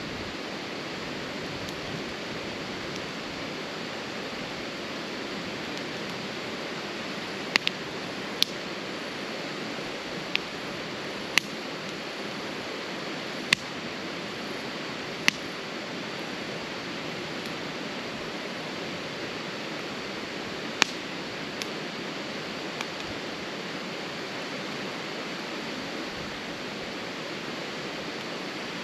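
Wood fire burning in a fire pit, giving about ten sharp crackles and pops in the middle of the stretch over a steady hiss.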